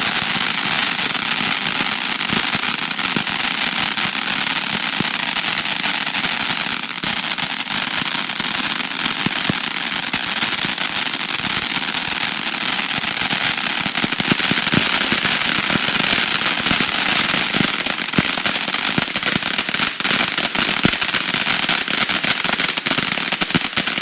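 Consumer ground firework going off continuously: a steady loud hiss of spraying sparks with dense crackling, the crackles growing thicker toward the end.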